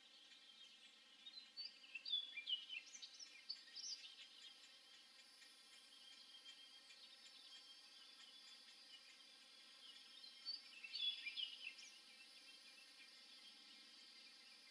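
Small bird calling in two bursts of quick, high chirps and short whistled glides, one starting about a second in and lasting a few seconds, the other near two-thirds of the way through, over a faint steady background hiss.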